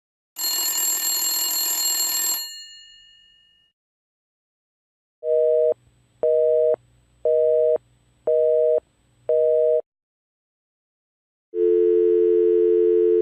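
A short burst of bright noise with ringing tones that fades away, then a telephone busy signal: five beeps about one a second. A steady telephone dial tone starts near the end.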